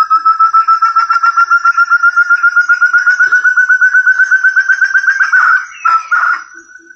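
Forest partridge (puyuh hutan) call used as a lure: a long, loud run of rapid, clear whistled notes that quicken and rise slightly in pitch. It stops about five and a half seconds in, followed by a short burst of rougher notes.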